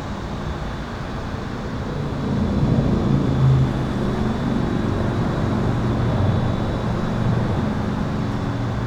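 Highway traffic rumbling under an overpass, swelling as a heavy vehicle passes about two to four seconds in, then holding at a steady roar. A faint steady high-pitched tone runs underneath.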